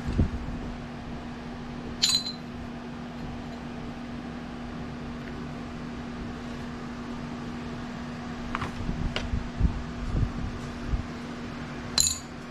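Two sharp metallic clinks of metal pieces set down on a workbench, about ten seconds apart, with a few soft knocks and handling sounds shortly before the second, over a steady background hum.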